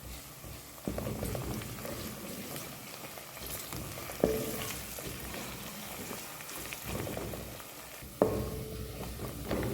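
Food sizzling as it fries in hot oil in a cooking pot while being stirred, with three sharp knocks.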